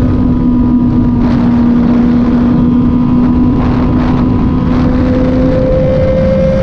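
Kove 450rr motorcycle engine running under way at a nearly steady speed, its pitch sagging slightly, then climbing again near the end, under heavy wind rush on the microphone.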